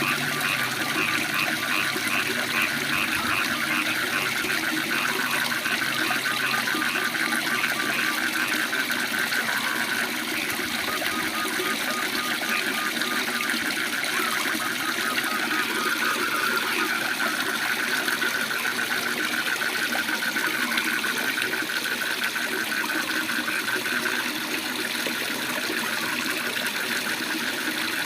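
Waterfall pouring steadily, with frogs calling over it in fast, pulsing trills.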